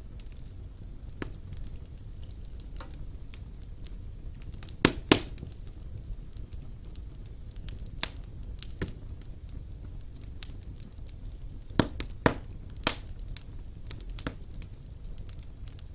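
Wood fire burning in a fireplace: a low steady rumble of the flames with sharp, irregularly spaced crackles and pops of the burning logs, a few louder snaps in pairs around five seconds in and again near twelve seconds.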